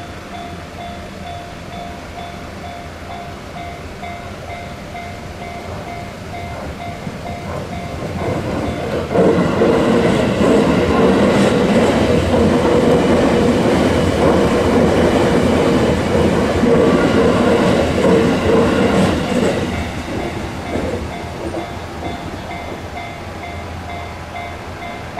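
Japanese level-crossing warning bell clanging in a steady repeating rhythm while an electric train passes over the crossing. The train's rumble and wheel clatter build up about 7 seconds in, are loudest for about ten seconds, then fade, after which the bell is heard alone again.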